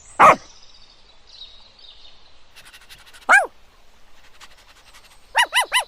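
Dog barking: one bark at the start, another about three seconds in, then a quick run of four barks near the end.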